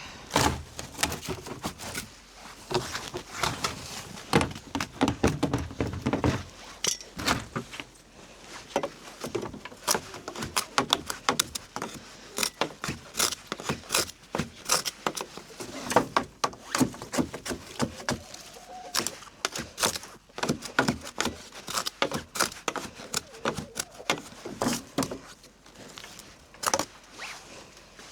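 Rapid, irregular knocking and scraping as a chicken coop door jammed with packed snow and straw is cleared and worked back and forth to get it to shut.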